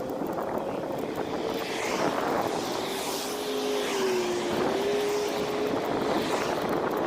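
Wind rushing over the microphone during a bicycle ride, mixed with road noise. A faint hum wavers through it and dips in pitch about four seconds in.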